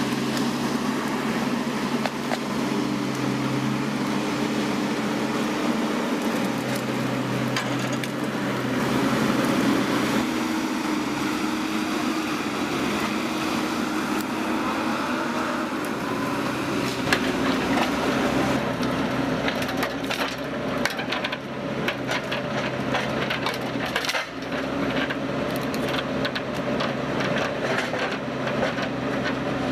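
A wood-processing machine runs with a steady engine hum while wood cracks and splinters under it, the cracking growing dense and rapid in the last third.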